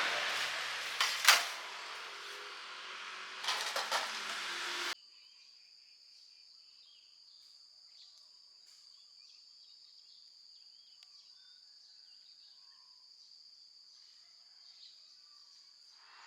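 Steady rushing noise with a sharp knock about a second in and a few clatters near four seconds. It cuts off suddenly about five seconds in, leaving only a faint, steady high-pitched whine.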